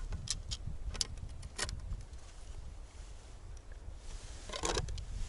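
Scattered short crunching clicks over a steady low rumble, with a cluster about a second in and another near the end.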